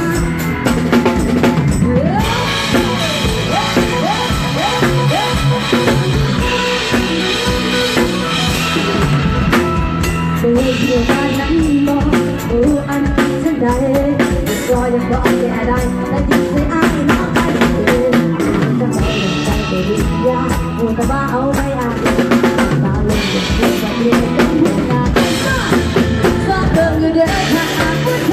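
Live band music: a drum kit keeping a busy beat with bass drum and snare under a pitched lead melody, with no singing in this passage.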